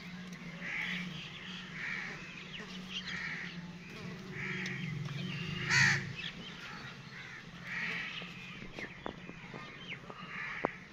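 A bird calling over and over, short calls roughly once a second, the loudest about six seconds in, over a steady low hum. A few light clicks near the end.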